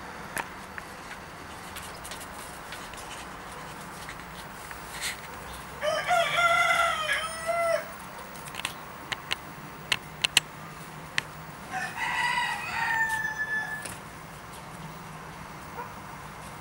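Two long, drawn-out bird calls, each about two seconds and some six seconds apart, with a few sharp taps between them from a raven's bill pecking at snow.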